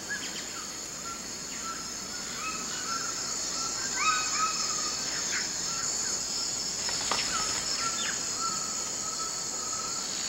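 Rainforest ambience: a steady, high insect drone with bird calls scattered throughout, short whistled notes and a few quick upward-sliding chirps.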